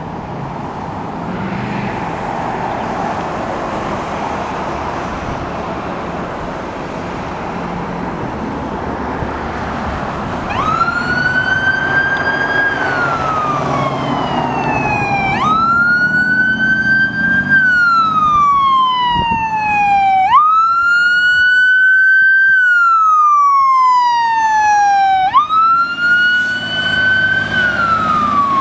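Fire engine driving past with its engine and road noise, then its siren starting about a third of the way in. The siren wails in cycles about five seconds long, each jumping up quickly in pitch and sliding slowly down, four times.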